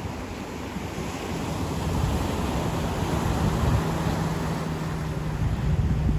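Ocean surf washing onto a beach, the wash swelling about a second in and staying full. A faint, steady low hum runs beneath it.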